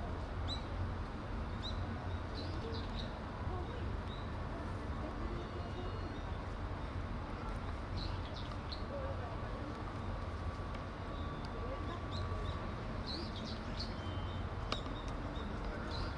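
Small birds chirping in short, sharp calls, scattered through in little clusters, over a steady low rumble.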